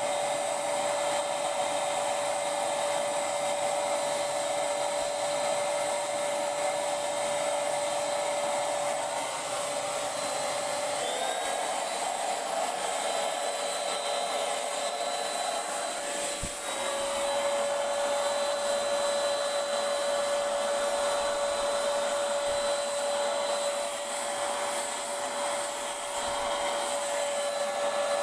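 Handheld electric Paint Zoom paint sprayer's turbine motor running steadily, a whine over rushing air hiss. Its pitch drops slightly about eleven seconds in and comes back up about seventeen seconds in.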